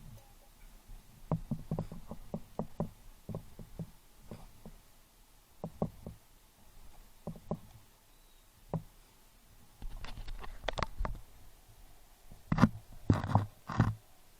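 A quick run of knocks, about four a second, then scattered single knocks, and a few louder strikes near the end.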